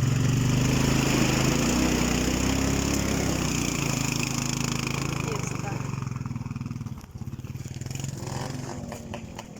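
A small off-road engine (ATV or motorcycle) running hard at steady high revs, then easing off about four seconds in and fading over the last few seconds.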